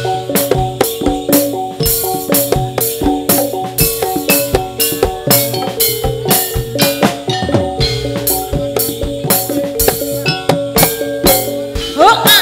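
Live Javanese dance-troupe music: a metallophone melody played over steady, driving drum beats at about two to three strokes a second. A high, gliding sound comes in near the end.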